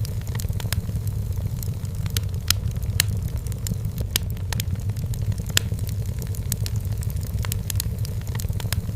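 Burning firewood in a fireplace crackling, with many sharp, irregular pops over a steady low rumble.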